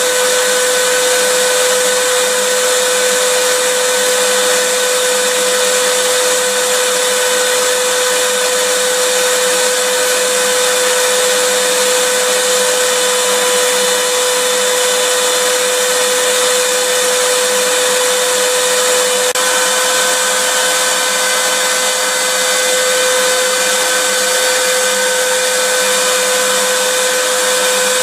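Electric vacuum cleaner running continuously: a steady whine over rushing air, the pitch shifting slightly about two-thirds of the way through.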